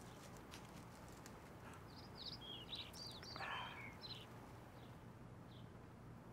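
Faint songbird chirping: a quick run of short twittering notes about two seconds in, then a couple of single chirps, over quiet room tone. A few faint light clicks near the start.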